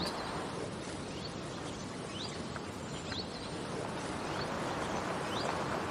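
Outdoor ambience: a steady hiss of background noise with a small bird giving short rising chirps every second or two.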